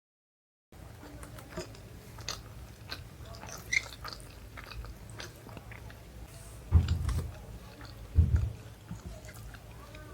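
Close-miked chewing of chole bhature and rice: soft wet clicks and smacks of the mouth. It starts after a moment of silence, with two louder low thuds about 7 and 8 seconds in.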